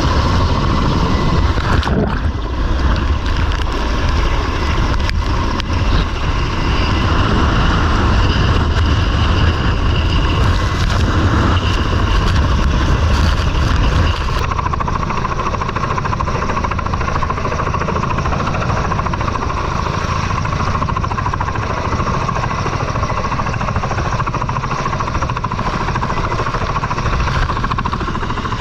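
An engine running steadily and loudly, with a constant whine over a low rumble. About halfway through, the rumble drops and the higher sounds thin out.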